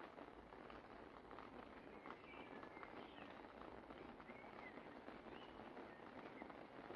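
Light rain pattering steadily as many fine drop ticks, with a bird giving a few short chirps in the middle.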